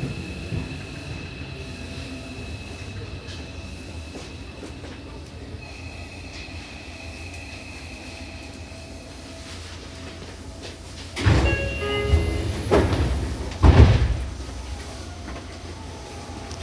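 Seibu 6000 series electric train standing at a station, its on-board equipment giving a steady low hum. About eleven seconds in, the passenger sliding doors operate: three loud clunks in quick succession, the first with a short ringing tone.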